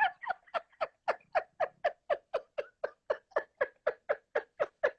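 A person laughing hard in a long unbroken run of short, high-pitched breathy pulses, about four a second, each dipping slightly in pitch.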